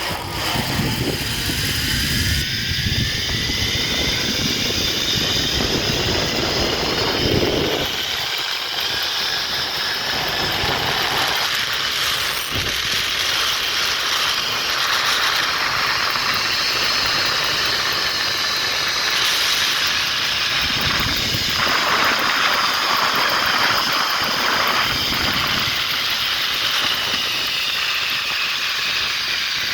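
Zip line trolley pulleys running along the steel cable at speed, giving a continuous high whine that slowly shifts in pitch. For the first several seconds a heavy low rush of wind on the microphone lies under it.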